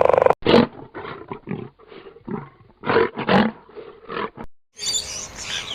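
A big cat giving a run of short roars, one after another with brief gaps, the loudest about half a second and three seconds in.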